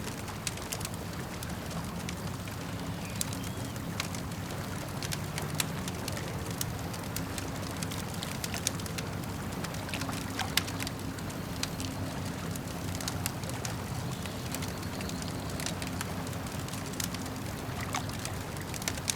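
Wood campfire crackling, with irregular sharp pops and snaps, over a steady low wash of lake water lapping at the shore.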